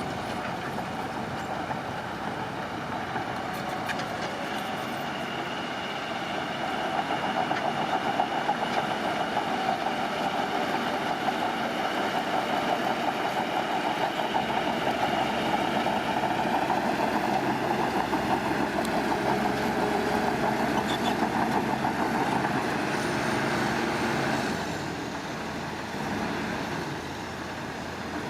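Heavy construction machine's diesel engine running steadily, building louder several seconds in and easing back down near the end.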